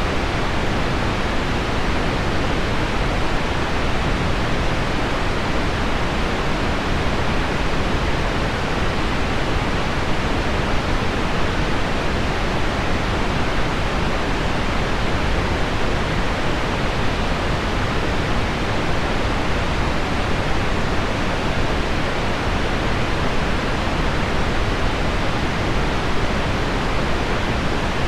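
Heavy rain on window glass mixed with deep pink noise, heard as one steady, even hiss with no breaks or single drops standing out.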